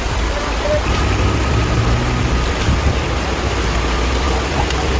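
Motor vehicle running: a steady low rumble under an even hiss of road or rain-like noise.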